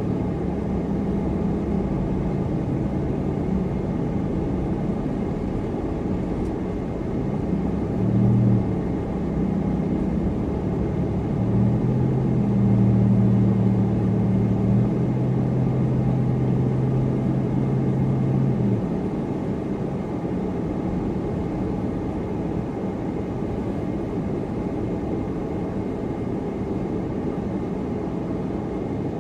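Supercharged car driving: steady road and engine noise, with a low engine hum that changes pitch in steps for the first twenty seconds or so, then sinks under the road noise.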